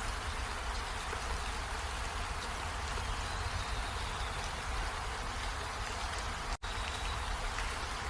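Steady rain falling. The sound cuts out for an instant about six and a half seconds in.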